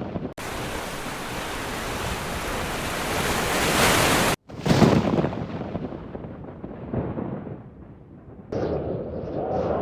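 Heavy rain pouring in a thunderstorm, with the sound cut off abruptly a few times. About four seconds in, a loud crack of thunder rumbles and fades over the next few seconds.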